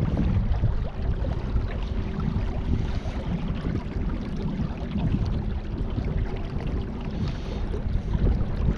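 Wind buffeting the microphone, a low uneven rumble, with a faint steady hum underneath that fades out near the end.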